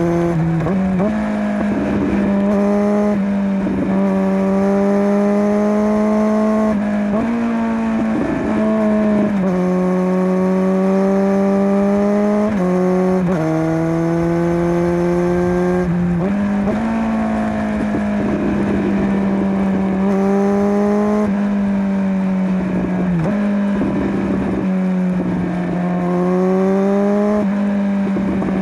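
Kawasaki Z900 inline-four engine through a LeoVince LV10 slip-on exhaust, riding through the gears. The pitch climbs steadily under throttle and drops or jumps sharply every few seconds at each shift.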